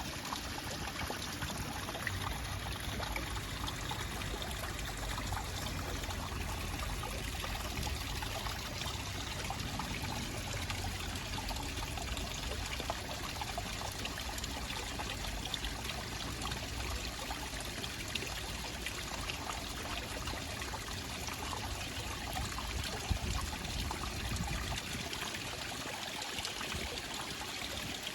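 Water trickling and flowing steadily, as of a small stream, with a low rumble underneath that fades out near the end.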